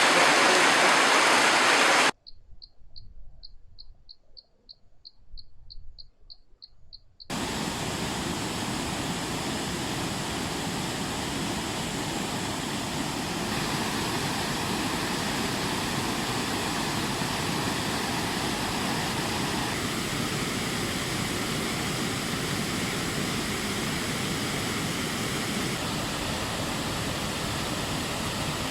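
Flash-flood water rushing down a swollen stream as a steady, even roar. About two seconds in the sound cuts out abruptly for about five seconds, leaving only a faint high chirping about three times a second, then the steady rush of water cuts back in.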